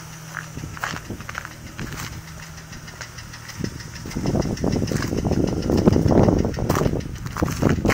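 Toyota 1JZ-GTE turbocharged inline-six idling with a repeated knock. About four seconds in, a much louder rough rumbling noise comes in over it.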